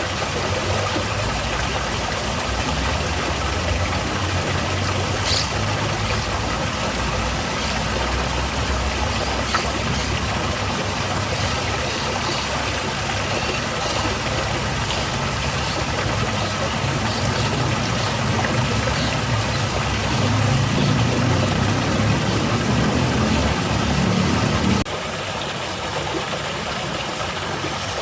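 Steady rushing of a garden waterfall, with a low rumble underneath that swells and then drops off suddenly about 25 seconds in.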